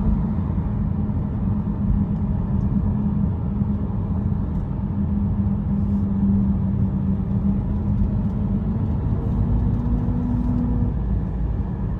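A vehicle running: a loud, steady low rumble with a constant hum, the hum rising slightly in pitch near the end.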